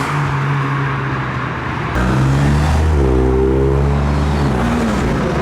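Car engines running as cars pull out of a meet. A louder engine comes in about two seconds in and revs up a second later, then eases off.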